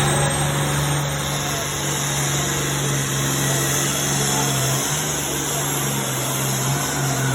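Pulling truck's engine running with a loud, steady drone, over a constant wash of noise.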